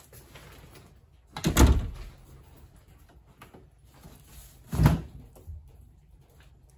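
Two heavy thumps about three seconds apart, each lasting about half a second.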